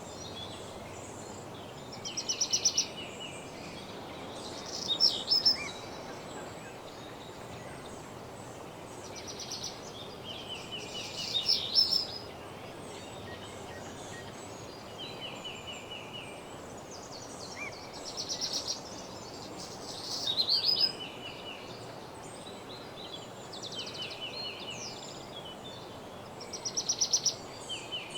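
Songbirds singing short trilled phrases, each a quick run of repeated notes, coming every few seconds over a steady background hiss of woodland ambience.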